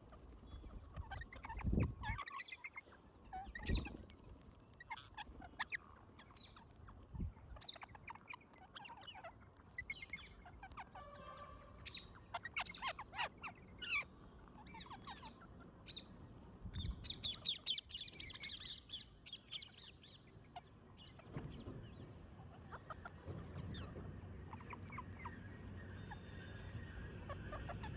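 Parrots calling in short chirps and squawks, with a fast run of high chattering calls about two-thirds of the way through. A few dull low thumps sound among the calls.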